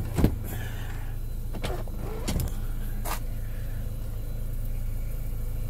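2002 Mini Cooper's 1.6-litre four-cylinder engine idling steadily, heard from inside the cabin, with a few short knocks and rustles from someone moving about in the car, the sharpest just after the start.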